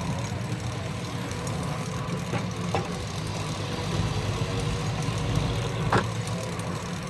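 A Keck-Gonnerman steam traction engine running steadily with a low rumble while it belt-drives the sawmill between cuts. There are a few sharp knocks, about two in the middle and one near the end.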